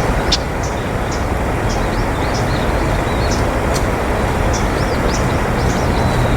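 A steady, loud rushing background noise, with small birds chirping over it in short, high calls, a dozen or so times.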